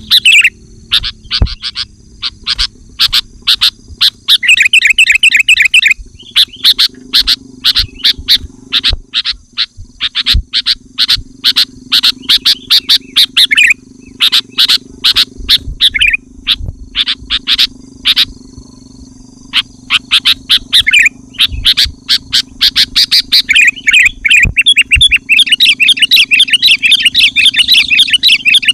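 Sooty-headed bulbul singing loudly, a dense run of rapid, sharp chattering notes repeated without pause, the full territorial song that provokes rival bulbuls to answer. A steady low hum runs underneath.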